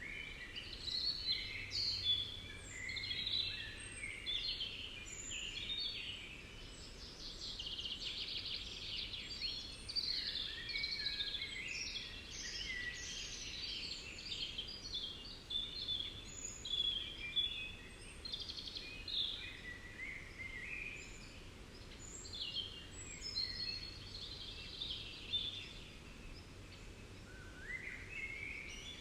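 Many wild birds calling and singing together: a busy chorus of short, high, overlapping chirps and trills.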